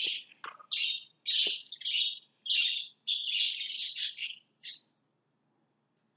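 Lovebirds chirping and squawking in a quick run of harsh, raspy calls that stop abruptly after about five seconds.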